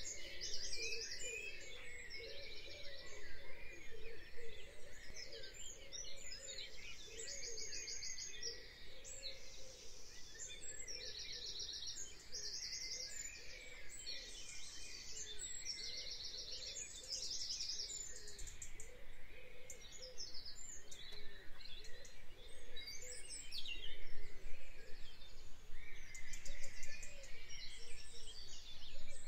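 Birdsong ambience: several birds singing, one of them repeating a short, rapid high trill every second or two.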